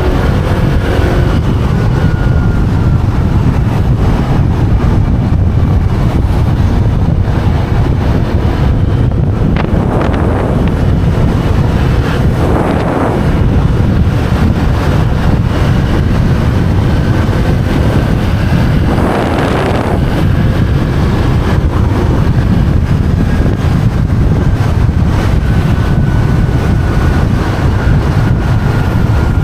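Riding a motorbike at speed: heavy wind buffeting on the microphone, with a faint steady engine note underneath. Brief swells of noise rise and fade about ten, thirteen and twenty seconds in.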